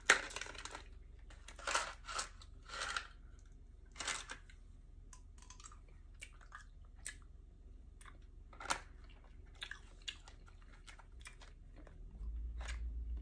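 A person eating orange Mike and Ike chewy candies: crinkles and clicks from the small candy box being opened and handled, and soft chewing, as a string of short scattered crackles.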